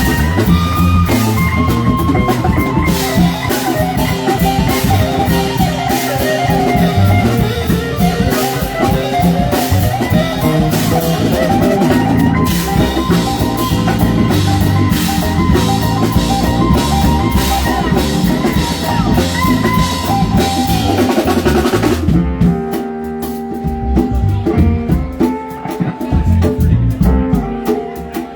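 Live band playing an instrumental passage on drum kit and guitar, the drummer keeping a busy beat with cymbals and rimshots. About two-thirds of the way through the cymbals and drums drop out, leaving quieter held notes from the pitched instruments.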